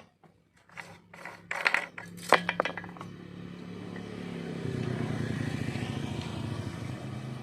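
Metal clicks and clatter, then a small two-stroke engine running steadily, growing louder about four and a half seconds in.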